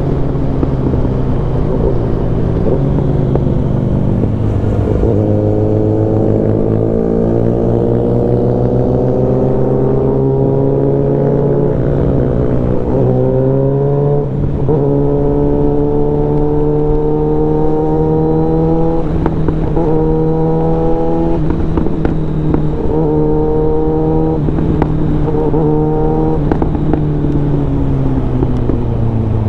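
Suzuki Bandit 650N inline-four engine running through a full aftermarket exhaust while riding. The revs climb steadily for several seconds in one gear, then rise in shorter pulls broken by quick gear changes, and ease off near the end.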